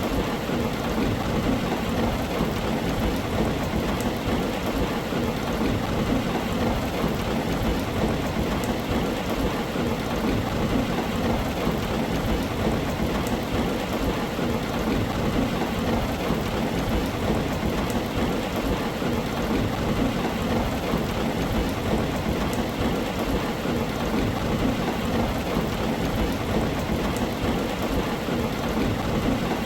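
Heavy rain drumming on a tin roof, a steady, dense hiss with a low rumble underneath.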